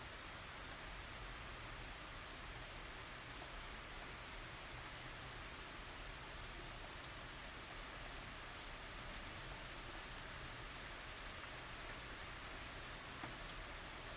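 Steady light tropical rain falling, a soft even hiss with many small drop ticks and no thunder.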